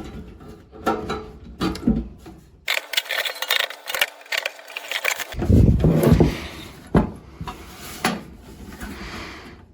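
Irregular clicks, knocks and scraping of hand tools and small parts being worked on a metal chassis, with a stretch of hissy rustling in the middle and a few heavier thumps after it.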